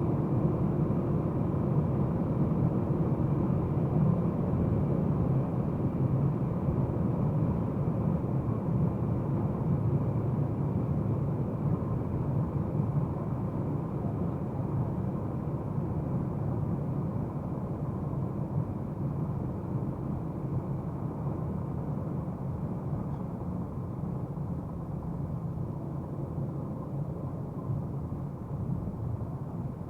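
2022 Audi RS4's 2.9-litre twin-turbo V6 running steadily while the car drives, with steady road noise. It eases slowly quieter over the half-minute, with no sharp revving.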